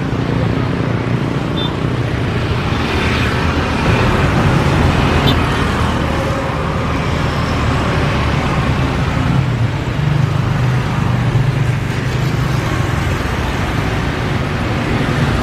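Steady engine noise: a low rumble under a broad hiss, swelling slightly about four seconds in.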